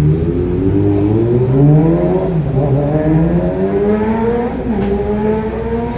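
Kawasaki Ninja ZX-25RR's 250 cc inline-four through an Arrow Thunder exhaust, revs climbing. The pitch rises, drops briefly about two seconds in and again near five seconds, then climbs again.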